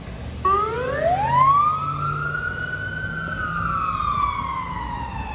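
Emergency vehicle's electronic siren starting a wail about half a second in: the pitch climbs steeply for about a second and a half, then slowly sinks, with a low engine hum beneath.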